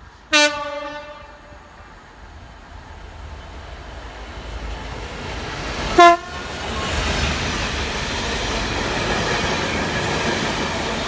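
Train horn sounded in two short blasts about six seconds apart, the second a little higher in pitch than the first; an odd-sounding horn. Between and after the blasts the rumble of a train on the rails builds up and carries on steadily as it runs through.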